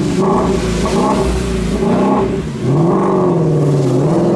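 Car engine revving and accelerating, its pitch wandering up and down, dropping about two and a half seconds in and then climbing again.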